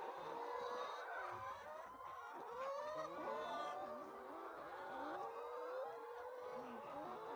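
A flock of laying hens clucking and calling, many short overlapping rising and falling calls at a fairly low level.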